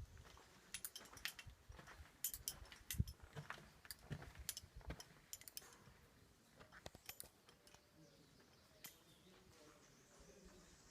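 Near silence with faint scattered clicks and taps, thinning out after the first several seconds.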